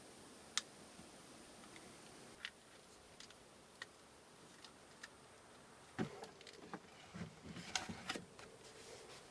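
Faint, scattered light ticks and clicks, then a brief flurry of small knocks and clatter starting about six seconds in.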